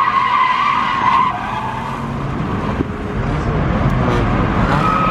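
Car tyres squealing in a long steady screech over a revving engine as a car spins donuts. The squeal drops away a little over a second in, leaving engine rumble and tyre noise, and starts again near the end.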